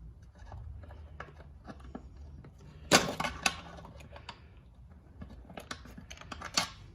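Hand tools clicking and clinking against the metal fasteners of an outboard motor's exhaust cover as screws are worked loose. There is a sharp clack about three seconds in and a few lighter clicks near the end, over a faint low hum.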